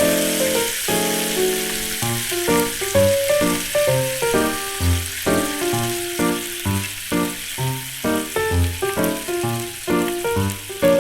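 Food sizzling steadily as it fries on a hot griddle, with background music playing over it.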